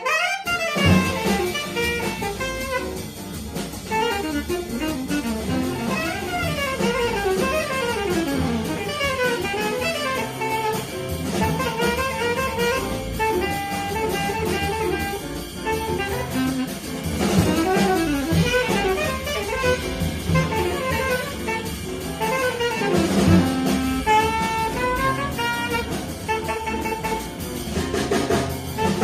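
Bebop jazz played live by alto saxophone, piano, double bass and drum kit, with the alto saxophone playing fast runs of notes that rise and fall over the rhythm section.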